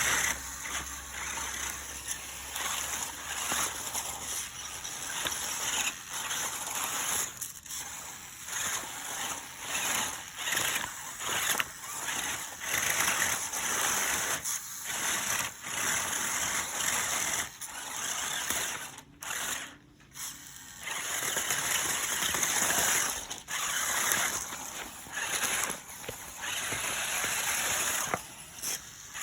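Water splashing and gurgling in uneven surges, with a short lull about two-thirds of the way through.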